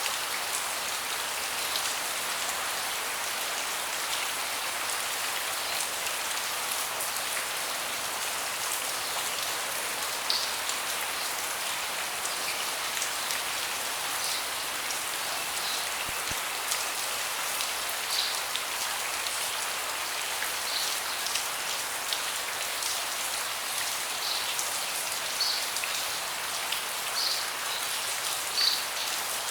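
Steady rain falling, with louder single drops standing out every few seconds.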